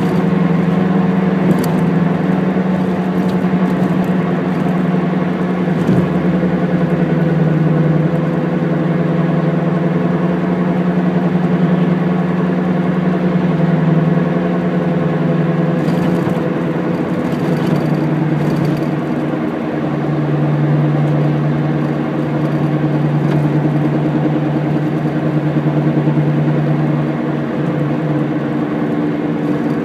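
Honda Integra DC2 driving, with steady engine and road noise and the pitch dropping a little about twenty seconds in. Under it runs the rhythmic "go, go, go" rumble of a worn wheel hub bearing.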